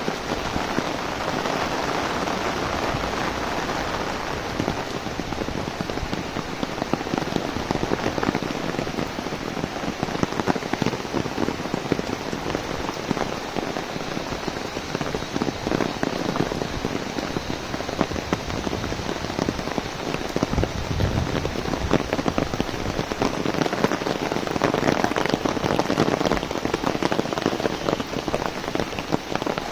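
Heavy rain pattering on an umbrella overhead: a dense, steady patter of many small drop ticks.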